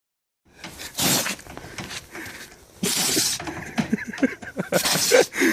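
A pet dog sneezing three times in a row, one sneeze about every two seconds.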